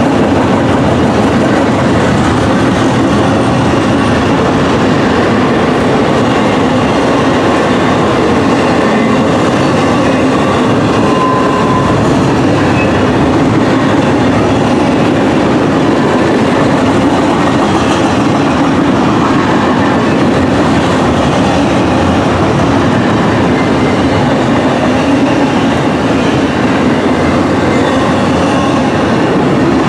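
Double-stack intermodal container well cars rolling past at speed: the loud, steady rumble and clatter of steel wheels on the rails.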